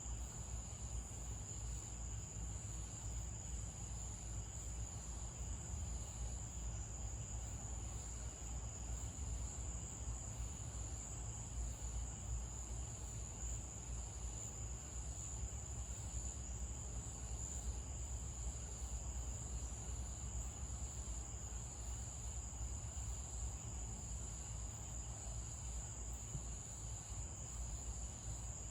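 Night insect chorus, crickets or similar, a steady unbroken high-pitched trill, over a constant low rumble.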